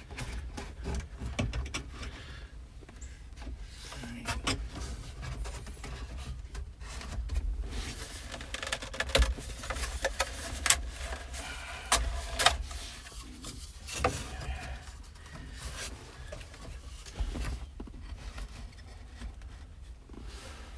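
Scattered clicks, taps and knocks of hand work with tools and parts, the sharpest clustered in the middle, over a steady low rumble.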